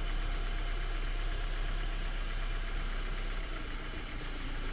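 Vauxhall Cavalier MK2's S16SH 1.6-litre four-cylinder petrol engine, warmed up and idling steadily.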